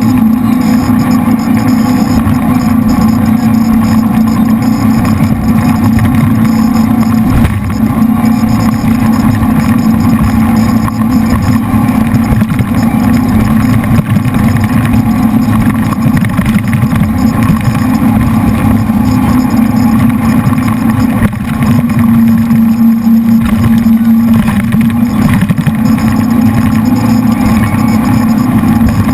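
Jet boat's three V8 engines running loud and steady at speed, with a brief dip about seven seconds in and a short shift in engine pitch around two-thirds of the way through.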